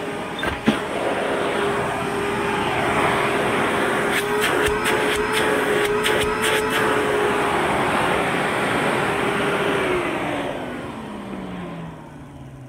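1994 Eureka World Vac canister vacuum cleaner with a power head, its motor running with a steady whine, with sharp clicks and rattles from about four to seven seconds in. About ten seconds in it is switched off and the motor winds down, its pitch falling away.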